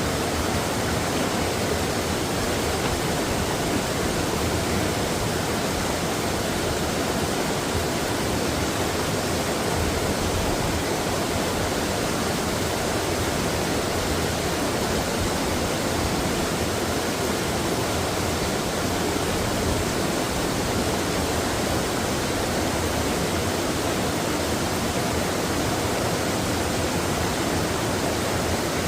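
Mountain stream rushing over rocks, a steady even flow of water with no change in level.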